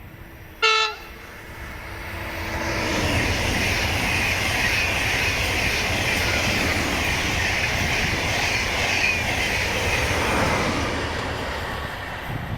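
A train sounds one short horn blast about half a second in, then passes close by: loud steady rushing and rumbling of the train for about ten seconds, easing off near the end.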